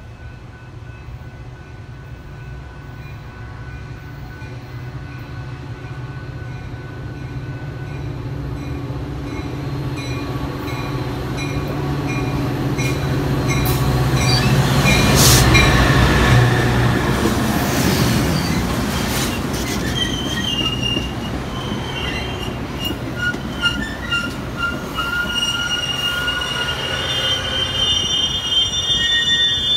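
Metra commuter train led by a diesel locomotive approaching and passing close by, its engine and rumble building to a peak about halfway through. The bilevel gallery cars then roll past with steady high-pitched wheel squeal over the rumble of the trucks.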